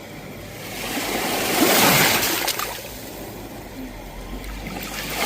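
Sea waves breaking on a shore: one wave swells about a second in, crashes around two seconds, and washes back, with the next wave building near the end.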